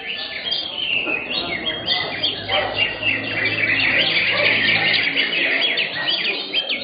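Several caged greater green leafbirds (cucak hijau) singing over one another: a dense, busy chorus of rapid chirps and quick whistled glides.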